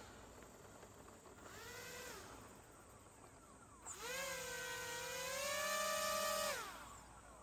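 Electric motors of a VTOL RC airplane whining as they are throttled. A short spin-up and spin-down comes about a second and a half in. A louder spin-up follows near four seconds in, holds for about two and a half seconds, then winds down.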